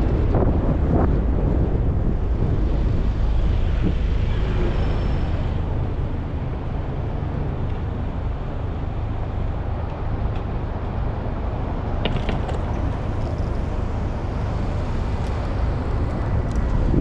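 Steady wind rumble on the microphone of a moving bicycle, mixed with road traffic noise.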